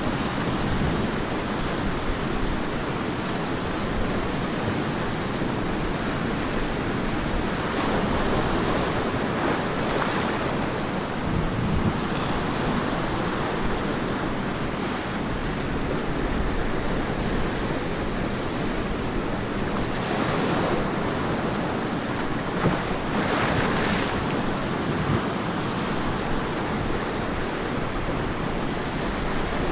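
Ocean surf washing onto a beach: a continuous roar of breaking waves, swelling as waves break about 8 to 12 seconds in and again around 20 and 24 seconds, with some wind on the microphone.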